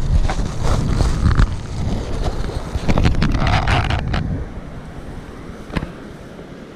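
Strong storm wind buffeting the microphone in gusts, loud for the first four and a half seconds or so and then easing off, with a sharp click near the end.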